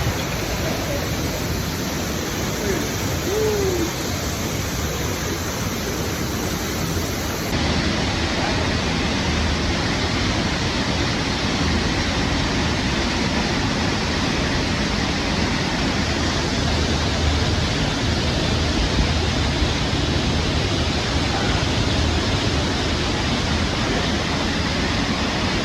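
Waterfall inside a rock gorge cave pouring with a loud, steady rush of water. The rush shifts slightly in tone about seven and a half seconds in.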